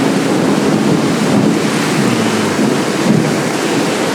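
Heavy monsoon downpour pouring steadily, with a low rumble of thunder underneath.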